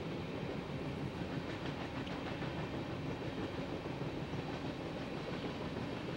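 Covered grain hopper cars of a freight train rolling past: steel wheels on the rails make a steady rumble with a few faint clicks.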